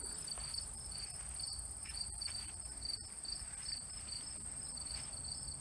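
Crickets chirping: a steady high trill with a lower chirp pulsing about four times a second.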